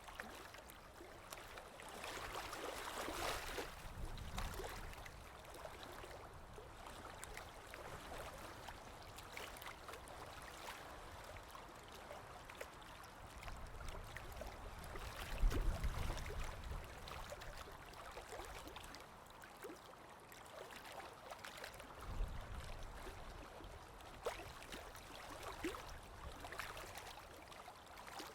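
Ocean waves washing in and breaking, with swells of louder surf about three seconds in, around the middle, and again later, over a steady wash with small crackles of foam and pebbles.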